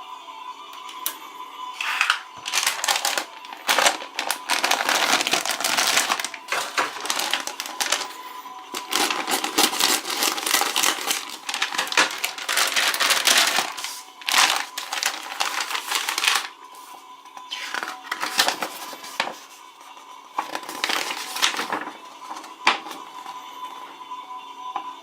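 Foil and plastic toy packaging being crinkled and torn open by hand, in long stretches of loud crackling with a pause in between, over faint background music.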